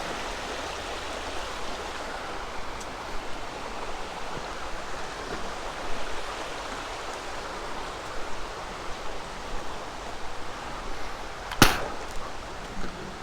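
Steady rushing of creek water, with one sharp click near the end.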